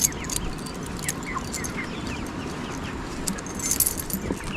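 A flock of 26-day-old broiler chickens in a shed giving many short, scattered cheeps and chirps, over the steady noise of ventilation fans.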